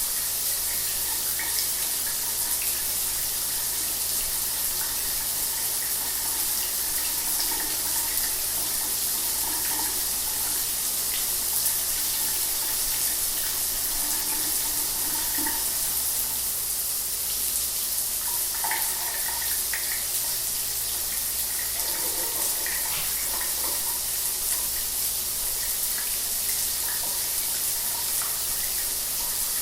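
Shower water running steadily: an even, hissing spray with small irregular splashes, over a faint steady low hum.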